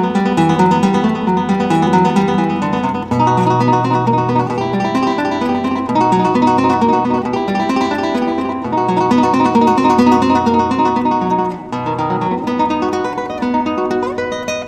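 Background music: acoustic guitar playing a plucked, flamenco-style piece.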